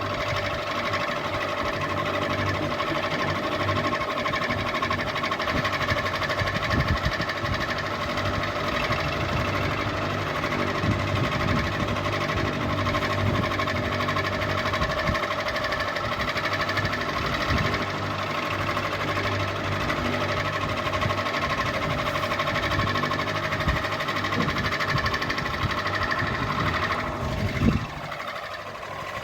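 Ceiling fan running steadily, a hum made of several steady tones over a mechanical whirr. Near the end there is a brief knock, and then the sound drops a little in level.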